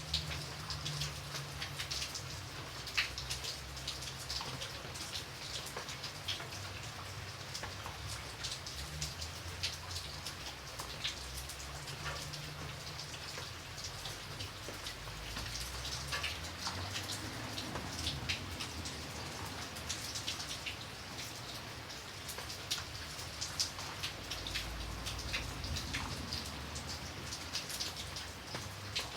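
Steady rain falling, with many close individual raindrops ticking sharply on a surface over an even hiss of rain and a low rumble underneath.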